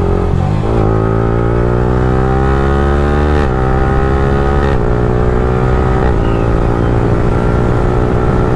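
Yamaha R15M's 155 cc single-cylinder engine, breathing through an aftermarket Akrapovic free-flow exhaust, accelerating hard under way. The revs climb and fall with three quick upshifts, about three and a half, four and three-quarter, and six seconds in, then hold fairly steady.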